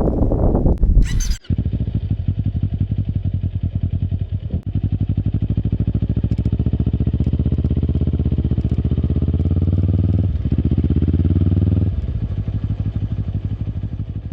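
Kawasaki Eliminator SE's 400 cc parallel-twin engine running at low revs through a BEAMS full exhaust system, a steady pulsing note that rises a little around the middle and fades out at the end. The first second or so is wind noise with a short hiss.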